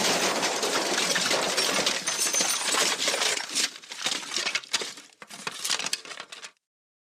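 The MGM 'Elephant Smash' stock crash sound effect: a long, dense clatter of breaking glass and tumbling debris. After about three seconds it thins out into scattered clinks and rattles, then cuts off abruptly near the end.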